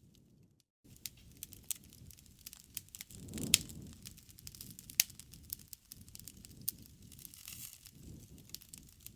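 Wood bonfire crackling: frequent sharp snaps and pops over a low rustle of burning, with two louder pops, one about a third of the way in and one about halfway. A brief break of silence comes just after the start.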